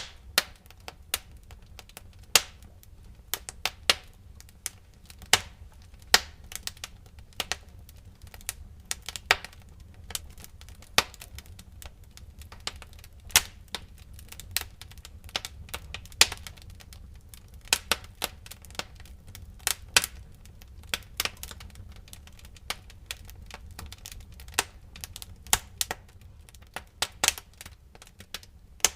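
Wood fire crackling in a fireplace: irregular sharp pops and snaps at uneven intervals, some much louder than others, over a low steady rumble of the burning logs.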